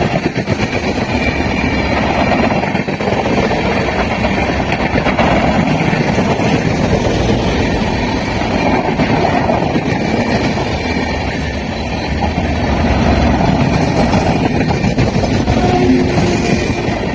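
Train running past on the rails: a steady loud rumble and rattle of wheels over track. A short steady tone near the end is likely a horn.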